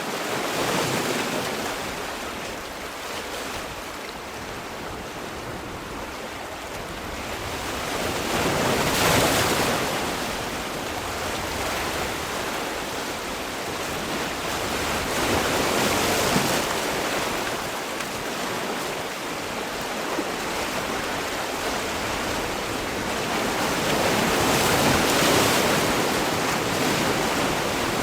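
Sea waves breaking on the shore, a steady wash of surf that swells about every seven seconds as each wave comes in and then recedes.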